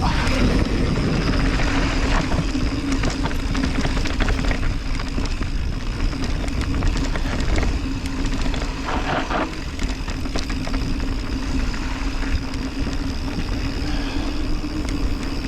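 Mountain bike running down a dirt trail at speed: wind buffeting the microphone, tyres on the dirt, and the bike rattling and clicking over bumps without a break.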